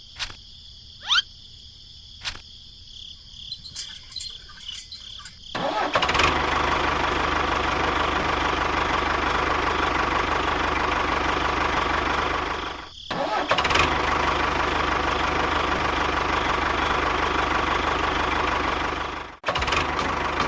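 A few sharp clicks, then a small motor starts about six seconds in and runs steadily. It dips briefly near the middle and cuts off suddenly near the end.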